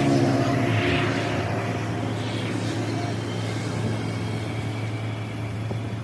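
An engine running steadily, with a constant low hum under a mechanical rattle-like haze, easing off slightly toward the end.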